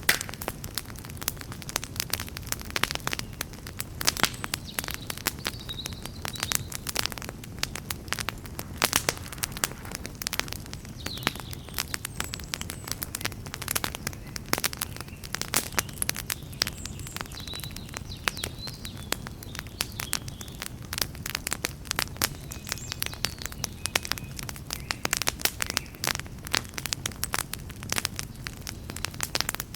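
Wood campfire crackling and popping: a dense, irregular stream of sharp pops over a steady low rumble of flame.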